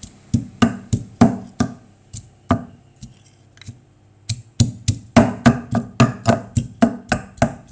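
Pestle pounding garlic in a mortar to crush it for papaya salad: sharp knocks at about three strikes a second. The pounding stops for about a second and a half in the middle, then resumes.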